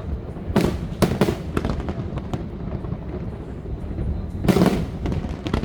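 Aerial fireworks bursting: a few sharp bangs about half a second to a second in, then a louder, longer blast about four and a half seconds in.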